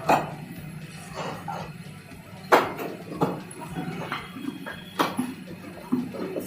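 Bricks knocking together as they are unloaded: five or six sharp, hard clacks at irregular intervals over a steady low hum.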